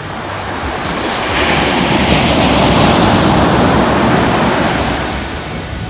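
Ocean surf: a wave breaks and washes up the shore, swelling to a peak a second or two in and fading away near the end.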